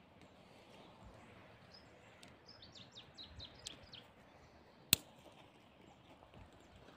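Quiet outdoor ambience in which a small bird gives a quick run of about seven short, high, falling chirps a couple of seconds in, followed by a single sharp click about five seconds in.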